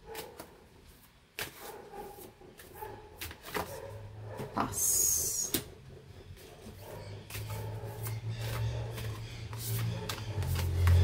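Oracle cards being handled and laid down: a string of light taps and clicks, with a brief rustle of card stock about five seconds in. A low steady hum sets in about halfway through.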